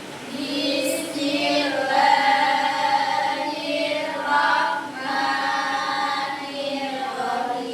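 A group of voices chanting a prayer together in unison, drawn out on held, sung notes.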